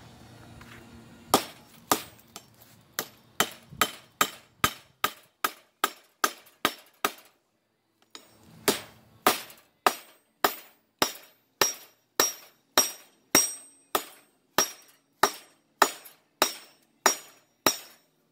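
Hand hammer forging hot steel on a metal block: a steady run of ringing metal-on-metal blows, about two a second. The blows break off for a moment a third of the way through, then resume at the same pace.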